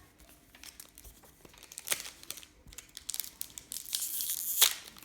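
Trading-card packaging crinkling as cards are handled: faint rustling, a couple of sharp clicks about two seconds in, and a louder crinkle near the end.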